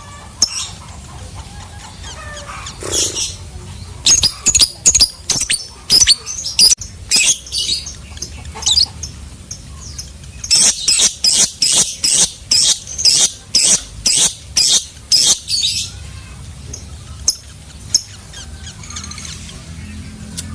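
Lovebird chattering in rapid runs of short, sharp, high-pitched chirps (the long "ngekek" chatter), densest about four seconds in and again from about ten to sixteen seconds in.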